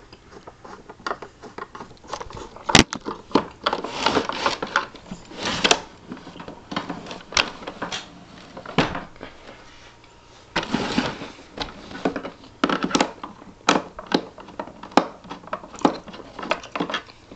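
A screw being unscrewed from the plastic housing of a Westinghouse Unplugged cordless vacuum: irregular sharp clicks and scraping, with plastic parts knocking.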